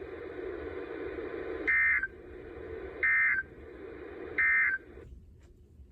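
Weather radio's end-of-message data bursts: three short, identical electronic screeches about a second and a half apart, closing a severe thunderstorm warning broadcast, over steady radio hiss that cuts out shortly after the third burst.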